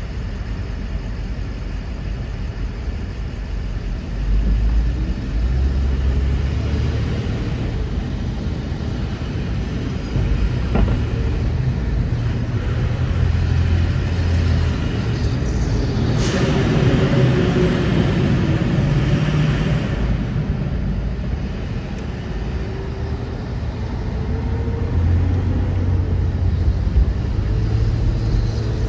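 Heavy trucks and buses driving past on a road, their diesel engines rumbling and rising and falling in pitch as they pass. A loud burst of hissing about halfway through.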